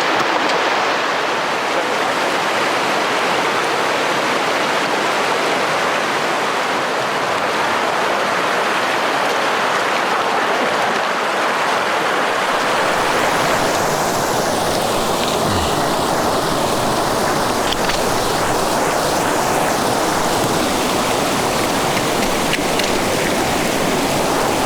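A fast-flowing stream rushing steadily over rocks, heard up close.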